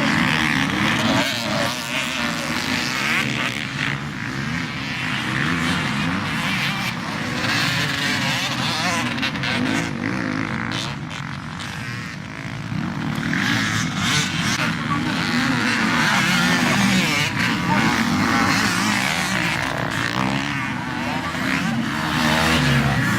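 Several motocross motorcycle engines racing, revving up and down as riders accelerate and shift, with their pitches rising and falling over one another. The noise eases a little around the middle and builds again toward the end.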